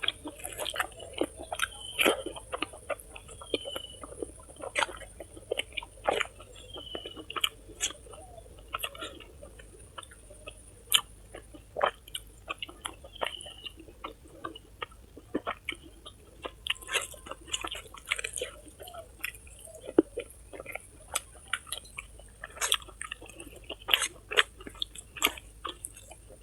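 Close-up chewing and mouth noises while eating: irregular wet smacks and sharp little clicks, over a faint steady high hiss.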